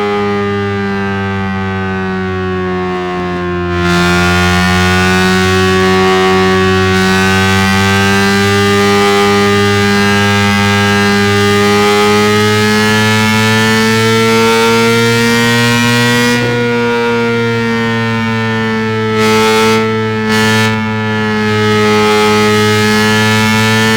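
Engine running at fairly steady revs, its pitch drifting slowly up and down. It gets louder and brighter about four seconds in, with a couple of brief sharper blips near the end.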